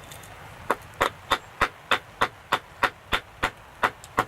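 Small axe chopping wood with quick, evenly spaced strikes, about three a second, starting just under a second in.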